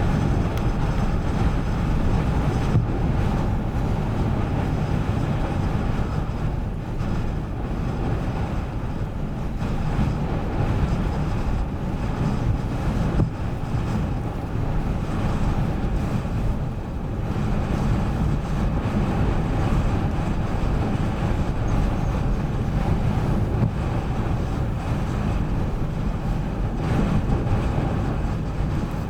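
Ocean surf against a rocky shore, with wind buffeting the microphone, heard as a steady low rumble.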